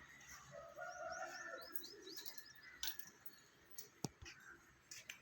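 Birds chirping faintly, with a quick run of short high chirps about two seconds in, and a couple of sharp clicks later on.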